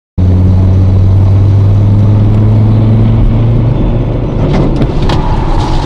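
Car running, with loud, steady engine and road noise that cuts in suddenly. A few sharp knocks come near the end, along with a steady higher tone.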